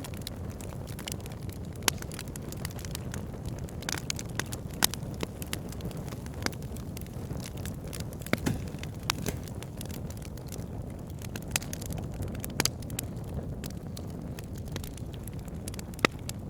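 Wood fire burning, with irregular sharp crackles and pops, a few much louder than the rest, over a steady low rumble.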